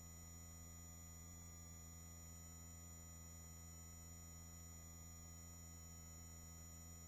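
Near silence: a faint, steady low hum with a thin high whine above it, the helicopter's drone as it comes through the headset intercom feed.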